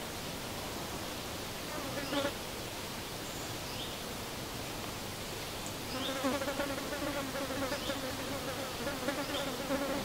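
A flying insect buzzing close by: a short pass about two seconds in, then a steady low buzz through the second half. An even outdoor hiss runs underneath.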